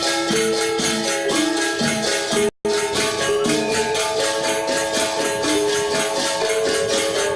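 Balinese gong gamelan ensemble playing a classical lelambatan piece: ringing metallophone notes held over a fast, even, jingling metal percussion pulse. The sound cuts out for an instant about two and a half seconds in.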